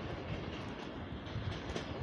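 A train running on the rails: a steady rumble with irregular wheel clicks over the rail joints.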